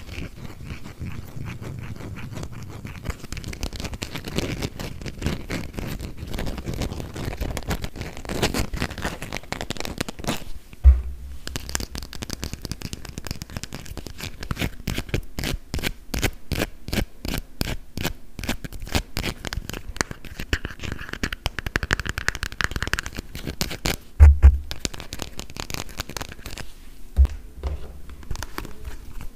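Fingernails scratching on plastic toy food, then tapping on it in quick, even strokes for the rest of the time. Three short low thumps come in among the taps, the loudest sounds here.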